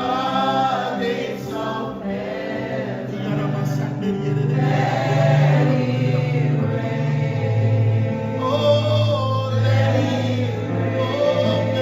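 Live gospel worship music: a choir of voices singing over held low bass notes.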